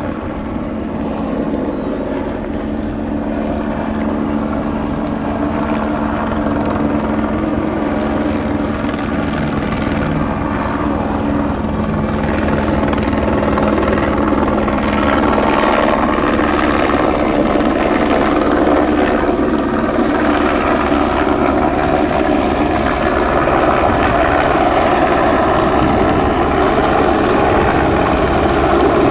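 Engine drone of an approaching vehicle, growing steadily louder.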